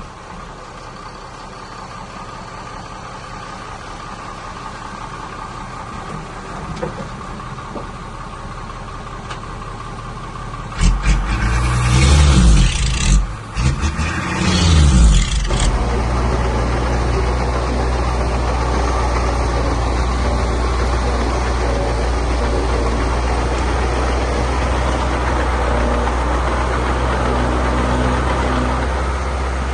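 Heavy diesel machine engine running low, then revving hard with rising and falling pitch for about five seconds, a little over ten seconds in, before settling into a louder steady drone.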